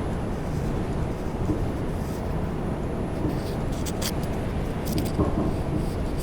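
R142 subway car running between stations, heard from inside: a steady rumble of wheels on rail, with a few brief high-pitched squeals or clicks about four to five seconds in.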